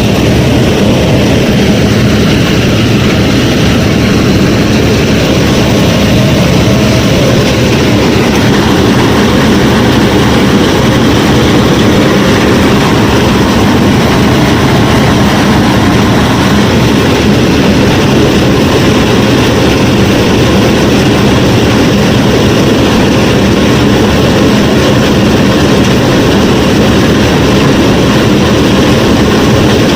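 Mini combine harvester running steadily: a loud, even mechanical drone with a low, engine-like hum that does not change.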